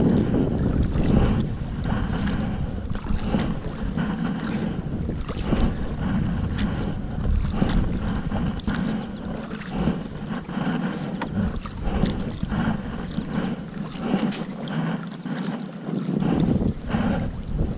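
Wind buffeting the microphone in a low rumble, with water splashing and slapping in many quick, irregular splashes around a kayak.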